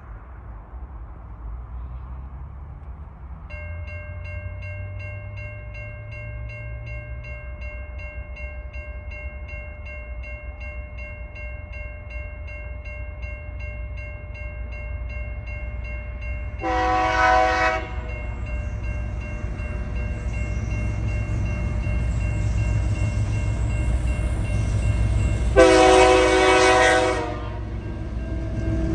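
Level crossing warning bell starts ringing about three and a half seconds in and rings steadily on, while TasRail diesel locomotives approach with a low rumble that grows steadily louder. The locomotive horn sounds twice, a blast of about a second midway and a longer one near the end.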